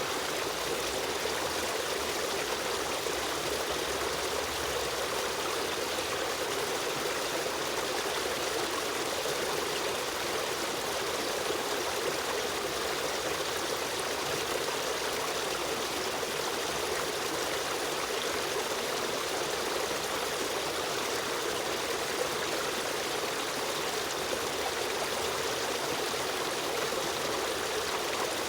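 A river stream running steadily, a continuous rushing and trickling of water with no change in level.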